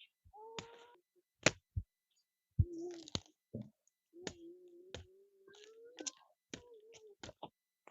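A series of sharp, irregular clicks and knocks with silent gaps between them, and a faint held, wavering tone under some of them.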